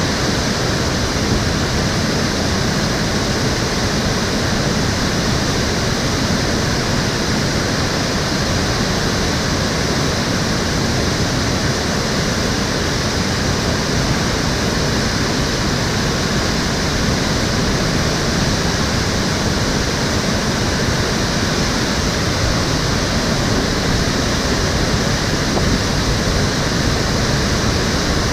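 Stream water flowing, a steady, even rush that does not change.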